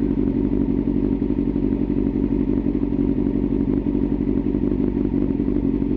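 Motorcycle engine running at a steady cruise under way, an even drone with no change in revs.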